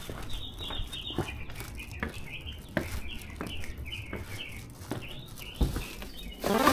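A songbird chirping over and over in short, high, mostly falling notes, with a few footsteps among them.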